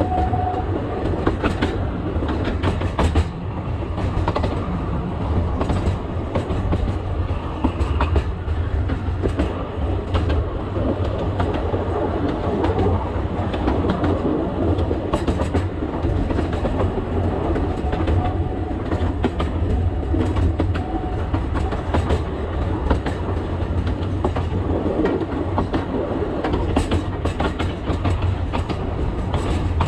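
Alishan Forest Railway narrow-gauge train running, heard from the cab: a steady low rumble with wheels clicking and clacking at irregular intervals.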